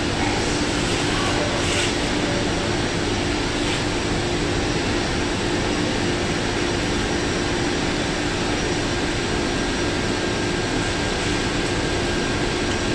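Steady industrial machinery drone, an even noise with a low steady hum that does not change.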